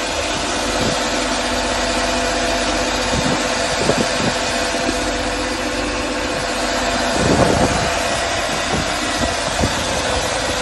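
A motor running steadily with a constant hum, over a continuous hiss.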